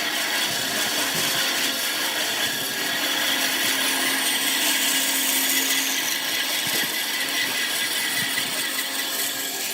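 A power tool working wood, running steadily with a high-pitched rushing noise over a faint low hum.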